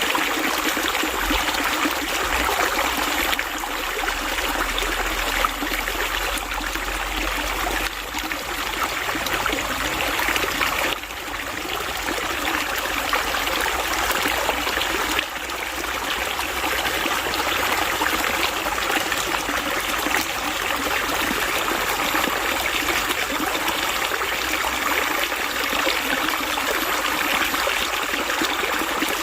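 Running water flowing steadily, like a small stream, with a few slight shifts in level.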